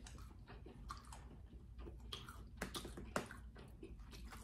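Faint chewing and wet mouth sounds of someone eating, with a few soft sharp clicks, the strongest a little past halfway.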